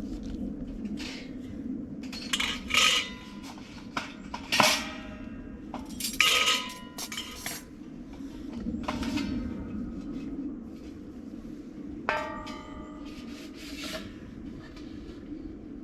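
Metal pieces clanking together, each knock leaving a short ringing tone. There are several clanks close together in the first half and another about twelve seconds in, over a steady low background hum.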